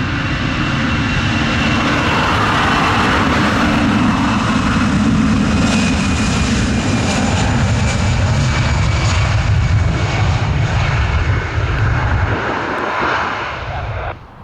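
Airliner's engines running loud as the aircraft passes close, a high whine sliding slowly down in pitch over a steady roar. The deep rumble drops away near the end and the sound then cuts off abruptly.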